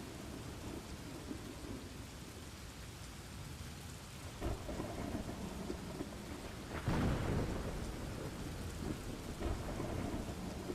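Steady rain falling, with thunder rumbling; a louder thunderclap breaks about seven seconds in and rolls away, after a smaller rumble a couple of seconds before it.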